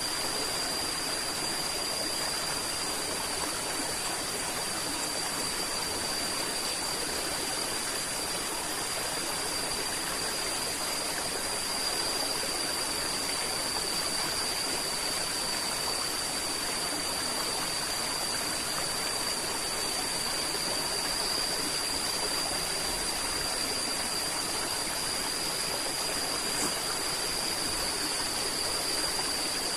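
River water flowing steadily, a continuous even rush, with a thin, steady high-pitched tone held over it.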